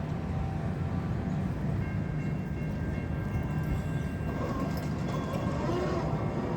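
Amtrak Northeast Regional passenger train running by, a steady low rumble.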